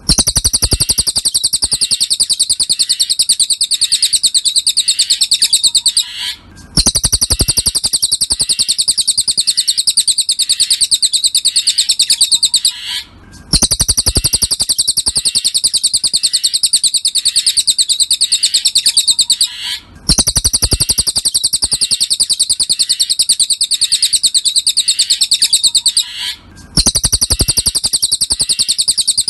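Cililin bird song from a masteran tutor recording: a fast, continuous string of high chirps, repeating as a loop about every six and a half seconds with a brief break between repeats.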